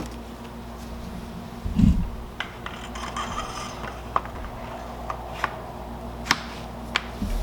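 Hand handling of a Girsan MC312 semi-automatic shotgun's action as the bolt is pulled back and locked to the rear: rubbing and sliding of the parts, a dull bump about two seconds in, and a series of sharp metallic clicks, the loudest a little after six seconds.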